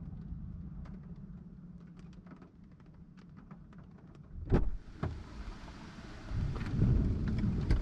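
Thunderstorm wind and rain on the microphone: scattered drops ticking over a low hum, a sharp thump about four and a half seconds in, then a steady hiss of wind-driven rain with heavy low buffeting of wind on the microphone near the end.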